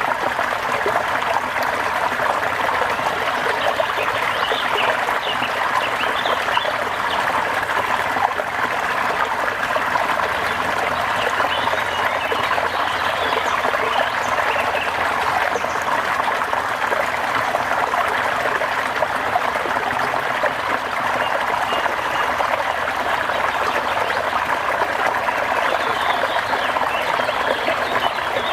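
Steady rush of water falling and running, even and unbroken, with faint high chirps now and then.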